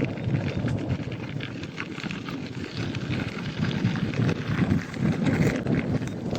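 Wind rumbling on the microphone, with irregular clicks and rattles throughout.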